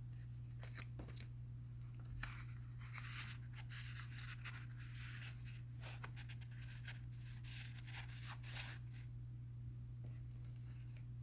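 Faint rustling and scraping of paper as the pages of a book are handled and turned, over a steady low hum.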